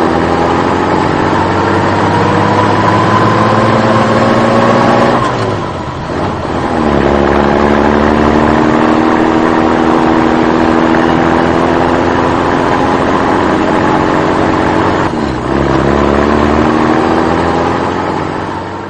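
Engine running under load, its pitch climbing slowly and steadily, dropping back and starting to climb again twice.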